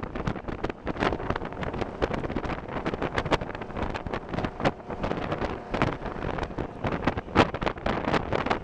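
Wind buffeting the microphone in irregular gusts over a steady rumble of noise.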